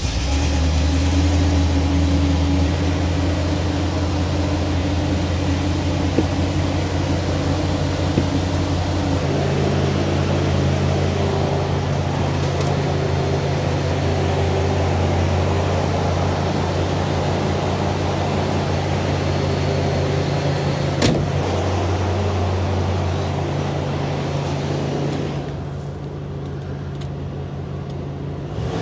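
1972 Lincoln Continental's 460 V8 running at idle, its note shifting about a third of the way in, with a single click near three-quarters through. Near the end it settles quieter as the gas pedal is pressed to knock the cold engine's choke off fast idle.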